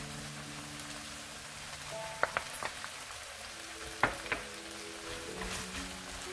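Sliced onions sizzling in a frying pan, with a few sharp clicks, two pairs about two seconds apart, the second as chopped green onion goes into the pan.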